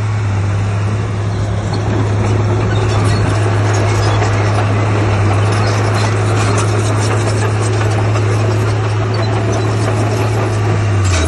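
Heavy diesel engine of earthmoving machinery running steadily under load, a strong low drone with mechanical clatter over it.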